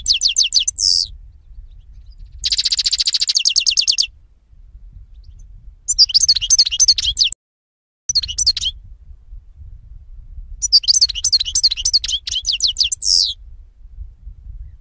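Pet songbirds singing in fast, high chirping trills. The song comes in five phrases, each one to two and a half seconds long, with short pauses between them; the longest phrase comes near the end.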